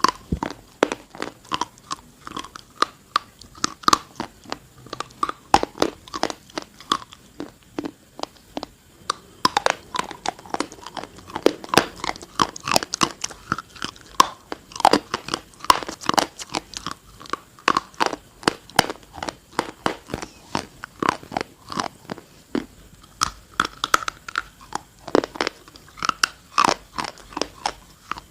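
Close-miked crunching and chewing of a hard, dry, chalky substance such as baked clay or chalk: dense, sharp crackly bites several times a second, throughout.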